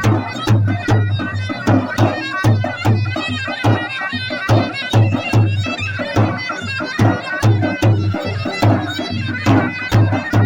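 Kurdish folk dance music: a reedy wind instrument plays a wavering melody over a deep drum struck steadily about twice a second.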